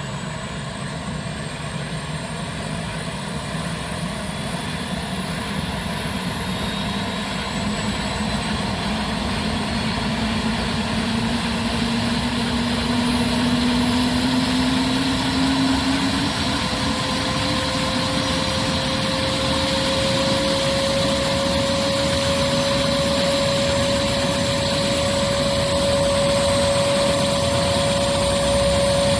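Police helicopter's turbine engine running, with a steady whine whose tones rise slowly in pitch as it grows louder.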